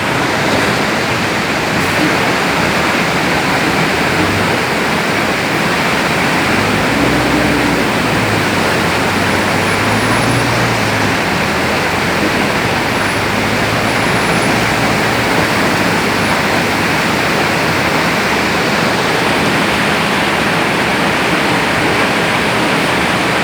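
Side dump truck unloading: a loud, steady rushing noise with a low engine hum beneath it.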